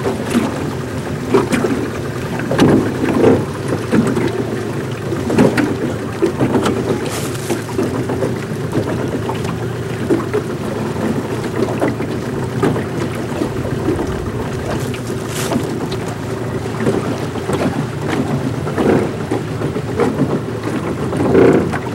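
Boat motor running steadily, with wind noise on the microphone and a few scattered knocks.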